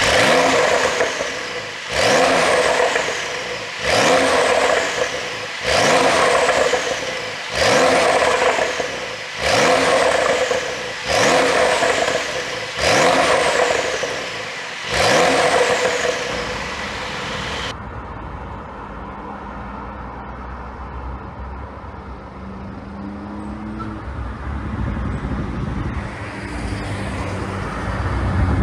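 Porsche 911 992 Carrera 4 GTS twin-turbo flat-six revved in about nine sharp blips, roughly one every two seconds, each dropping back in pitch, to test an ECU pop-and-crackle tune on the exhaust. After about seventeen seconds it settles to a steady idle, a little louder near the end.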